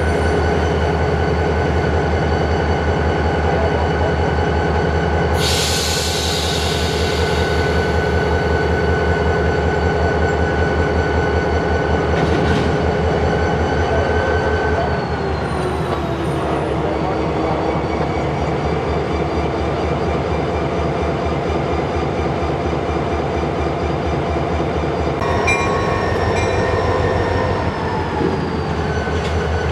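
Diesel freight locomotive working close by during switching: its engine runs with a steady pulsing drone and a high whine, then throttles down about halfway through and again near the end. A short burst of hiss comes about five seconds in, and a single sharp knock about twelve seconds in.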